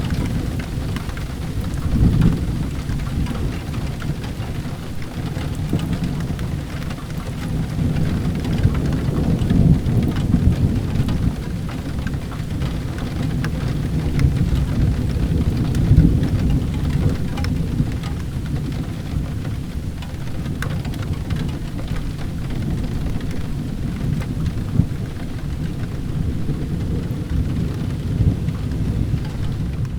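Steady heavy rain with a low rolling rumble of thunder that swells a few times, loudest about 2, 10 and 16 seconds in.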